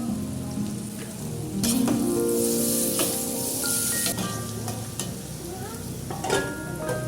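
Peanut-cracker (peyek kacang) batter frying in hot oil, sizzling, loudest from about two to four seconds in.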